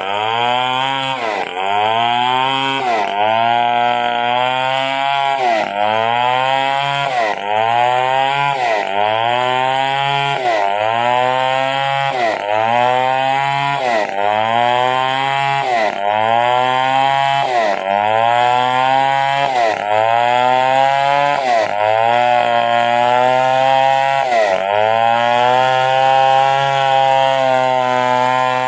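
Stihl 070 two-stroke chainsaw ripping a coconut palm log lengthwise. The engine pitch repeatedly drops under load and climbs back, about once every second or so, then holds steady and high near the end.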